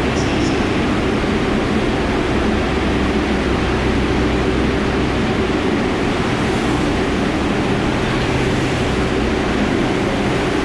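Steady subway noise: an even rumbling hiss with a low hum underneath, unchanging throughout.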